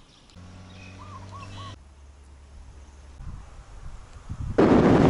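A bird calls three short arched chirps over a low steady hum. About four and a half seconds in, a loud rush of wind on the microphone starts abruptly and is the loudest sound.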